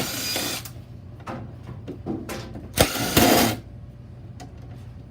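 Impact driver running in two short bursts, the first right at the start and a louder one about three seconds in, backing screws out of the machine's panels.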